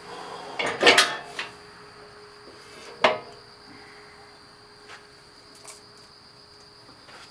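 Steel parts and hardware of a disc harrow being handled during assembly: a cluster of metal clinks about a second in, one sharp clank near three seconds, then a few light ticks.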